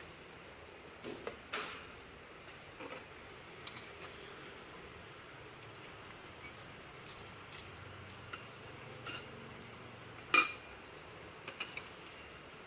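Utensils and bowls clinking and tapping now and then as bakso is dished up, the loudest a ringing clink about ten seconds in.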